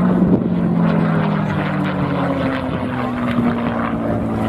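Piston engine of a propeller aircraft flying past, a steady drone whose pitch slowly shifts.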